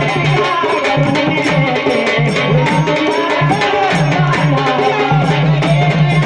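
Marathi Waghya devotional folk song: a melody over a steady, driving beat on the sambal drum, with organ accompaniment.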